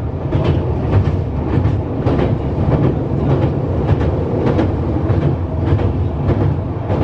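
Passenger train running along the track: a steady rumble of the coach with wheels clicking over rail joints at irregular intervals.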